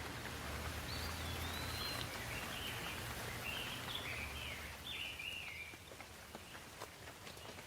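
Steady rain hissing, with a bird singing a run of short whistled chirps over it from about a second in. The rain eases a little near the end, where a few single drop ticks stand out.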